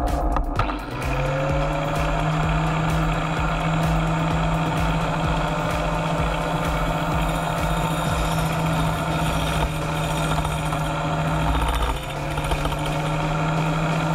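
Angle grinder fitted with a toothed circular saw blade starting up about a second in, then running steadily as it rough-turns a spinning wooden blank on a lathe. Near the end the motor drops briefly and picks back up.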